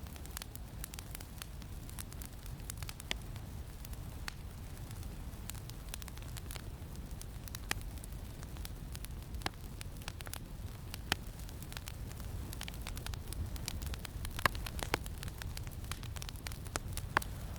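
Campfire crackling: irregular sharp pops and snaps over a steady low rumble of wind, with a few louder pops scattered through, two of the loudest near the end.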